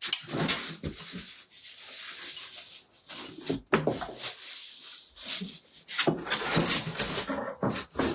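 Rustling and crinkling of packaging, with scattered knocks and clicks, as the parts of a boxed floor-standing lamp are unpacked.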